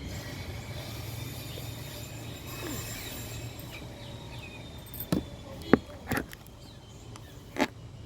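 Outdoor ambience: a steady low hum with faint bird chirps, broken about five seconds in by four sharp knocks, the last near the end.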